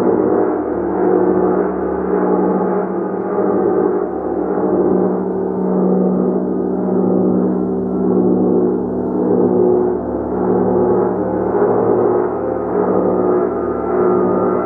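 Gong played continuously with soft, repeated strikes, building a dense, sustained shimmering wash of overlapping tones that swells gently about once a second.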